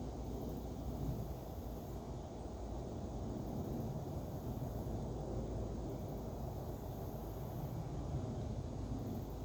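Outdoor ambience: a steady low rumble, with a faint high-pitched hiss that swells and fades about every three seconds.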